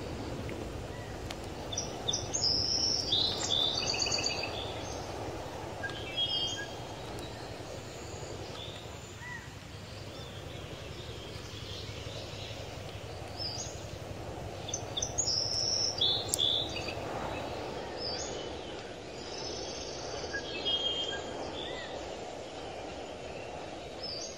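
Birds chirping in several short bursts of quick high notes over a steady low background noise.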